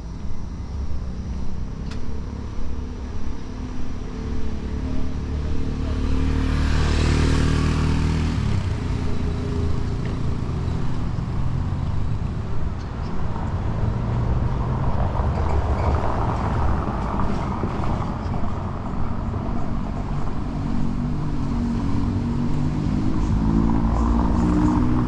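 Street traffic: vehicle engines running steadily, with a car passing close about seven seconds in and another vehicle going by a few seconds after the middle.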